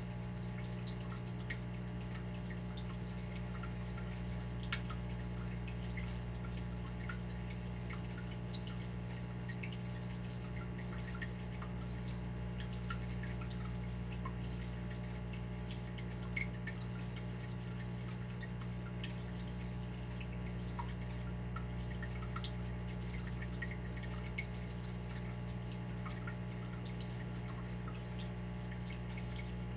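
Water dripping: many small, irregular drops ticking over a steady low background.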